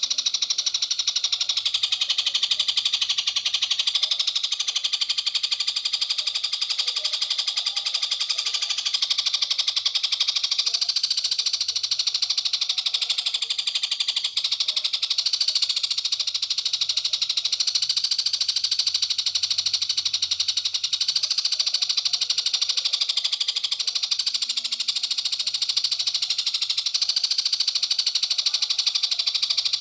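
A masteran recording played for training long-tailed shrikes: a continuous, high-pitched, very rapid trilling chorus that runs without a break.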